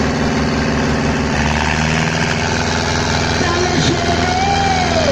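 Tractor diesel engine running with a pulsing beat that picks up speed and steadies about a second and a half in. Voices call out over it near the end.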